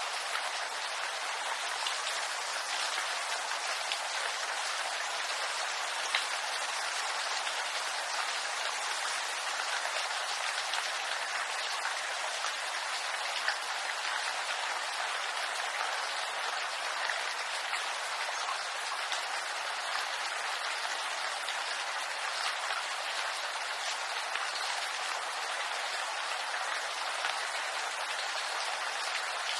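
Steady rain falling on a bamboo grove, an even patter of drops on leaves with an occasional louder single drop standing out.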